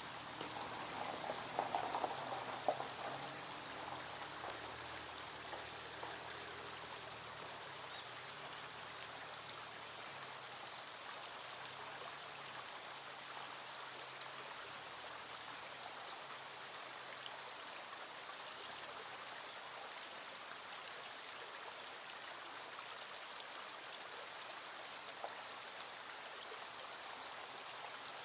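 Small stream flowing steadily while rain falls, with a brief flurry of louder, sharper drop taps about two seconds in.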